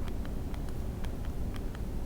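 A pause in speech: a steady low rumble of background noise with faint, irregular ticks a few times a second.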